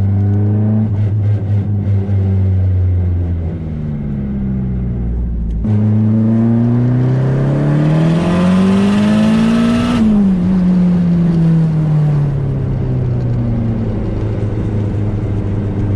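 Nissan Sil80's engine running: a steady note, then about six seconds in the note climbs for about four seconds as it revs up, drops off sharply when the throttle is lifted, and winds down to a steady lower note.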